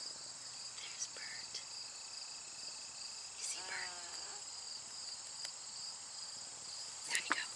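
Steady high-pitched chorus of crickets or other insects, with a few short bird chirps over it and a brief call about four seconds in.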